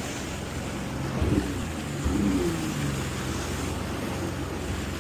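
Jet ski engine running steadily with a low hum, with wind and water noise on the microphone and a brief swell about a second in.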